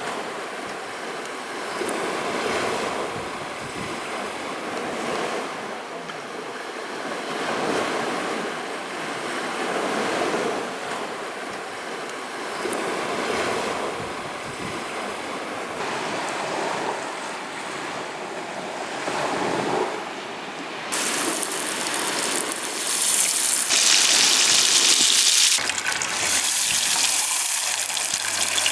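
Small waves breaking and washing on a shore in slow, rolling swells, with some wind on the microphone. About three-quarters of the way through it cuts abruptly to a louder, steady hiss.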